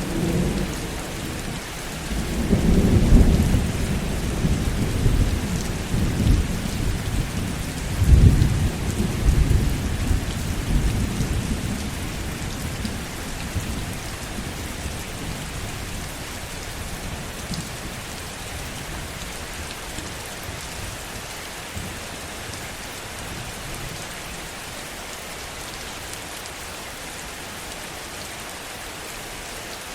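Heavy rain falling steadily, with rolling thunder. One low rumble builds about two seconds in, and a second one starts sharply about eight seconds in. The thunder dies away after about fourteen seconds, leaving the rain alone.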